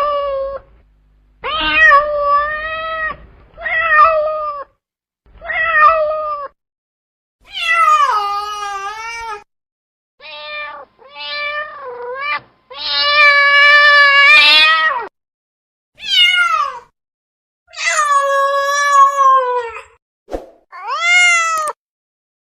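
Cat meowing over and over: about a dozen separate drawn-out meows, some short and some long, with brief pauses between them.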